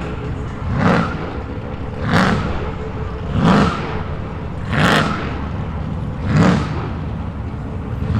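Car engine idling with a low rumble, blipped on the throttle about six times at a steady pace of roughly one rev every second and a half.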